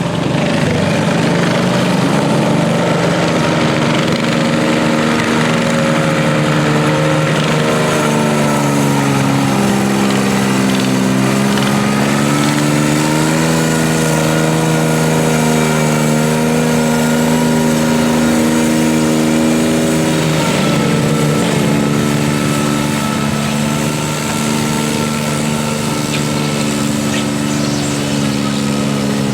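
Garden tractor engine running loud and steady at high revs. Its pitch sags about eight seconds in, climbs back a few seconds later, and shifts again about two-thirds of the way through.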